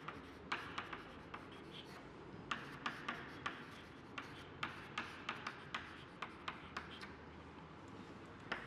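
Handwriting: faint, irregular short scratches and taps of a pen on the writing surface, about two a second.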